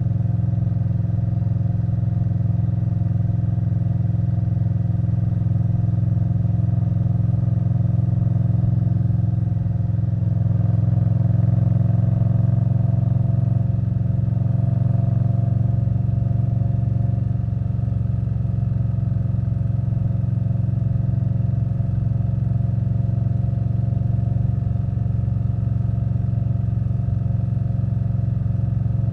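2021 Indian Scout Bobber Twenty's liquid-cooled V-twin running through a Vance & Hines Twin Slash exhaust while cruising at a steady speed. About ten seconds in it pulls a little harder, its pitch rising slightly, then settles back to a steady note.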